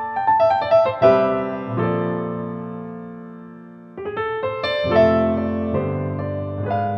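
Slow piano music: a quick run of notes settling into a chord that rings and fades away, then a new phrase of notes about four seconds in.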